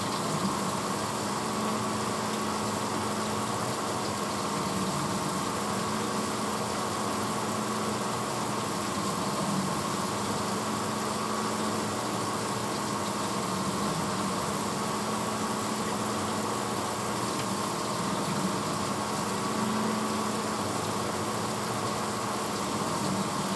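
1986 Hotpoint Potwasher dishwasher running mid-cycle: a steady motor hum over an even rushing noise, with no change in level.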